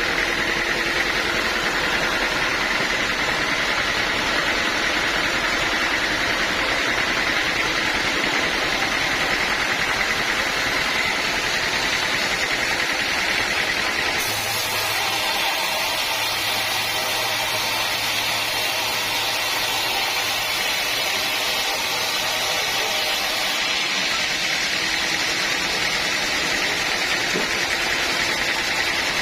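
Sawmill machinery running steadily with a loud, even mechanical noise. Its character changes about halfway through, adding a higher hiss and a low hum for around ten seconds before returning.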